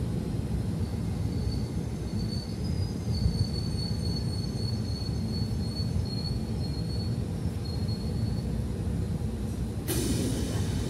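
Seibu 20000-series electric train pulling into the platform and braking to a stop: a steady low rumble, with a thin high-pitched squeal that comes and goes for most of the approach. About ten seconds in, as the train halts, a sudden loud hiss breaks out and fades.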